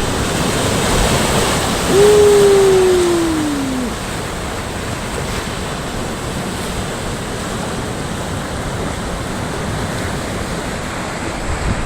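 Sea surf washing steadily on the shore. About two seconds in, a loud single tone sounds and slides steadily down in pitch for about two seconds before stopping.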